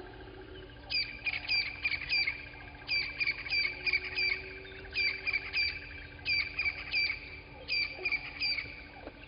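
A bird calling: short high notes that each drop sharply in pitch, repeated in quick runs of three or four, starting about a second in. Under it is a faint steady drone.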